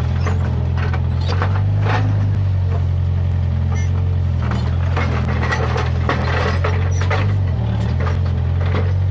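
Case 580G backhoe loader's diesel engine running steadily under work, with scattered clanks, squeaks and cracking over it; the engine note dips briefly near the end.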